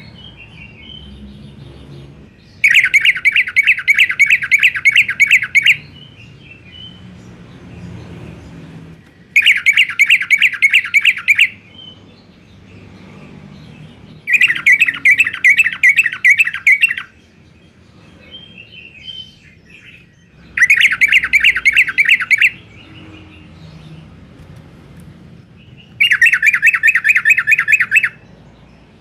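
Sooty-headed bulbul (trucukan) singing in the 'garuda' style: five bouts of rapid repeated chirping notes, each two to three seconds long, with short pauses between them.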